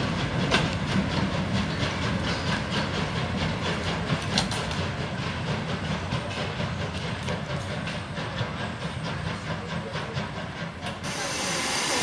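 Goods wagons and a brake van rolling past on the railway, wheels clicking over the rail joints over a low rumble that slowly fades as the train draws away. About eleven seconds in, a loud, steady hiss of steam from a steam tank locomotive starts suddenly.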